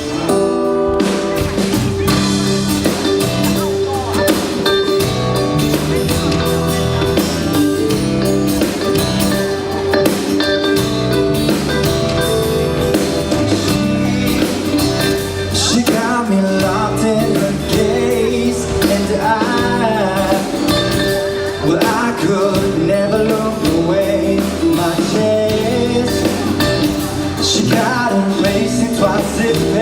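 Live pop-rock band playing an amplified song with guitar, bass and drums, with some singing.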